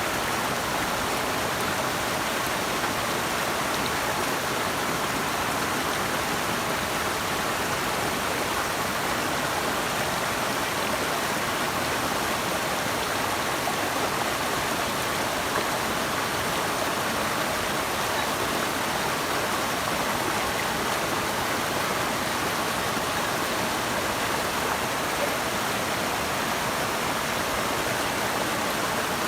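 Running water rushing steadily, a constant even wash of sound with no breaks.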